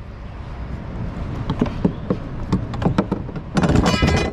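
Irregular knocks, slaps and rattles of a thrashing walleye being wrestled by hand against a plastic sit-on-top kayak, with a louder scuffling flurry near the end.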